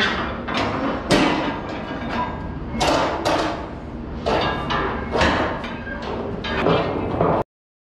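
Steel container-lashing gear, such as lashing rods and turnbuckles, clanking and knocking against the ship's steel during delashing. The knocks come irregularly over a low rumble, and the sound cuts off suddenly near the end.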